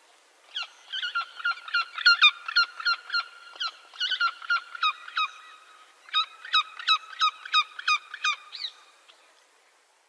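A bird of prey calling: a rapid series of short repeated notes, about three a second, in two bouts with a brief pause about halfway.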